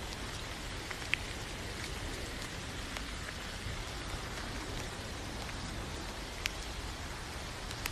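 Steady rain falling: an even hiss of rain with scattered individual drops, two sharper drop hits standing out about a second in and past six seconds.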